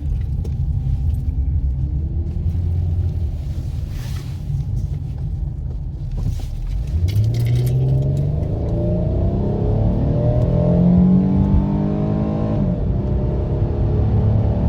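Dodge Charger engine and road rumble while driving, then the car accelerating from about halfway: the engine pitch climbs steadily, drops suddenly near the end as the transmission shifts up, and starts climbing again.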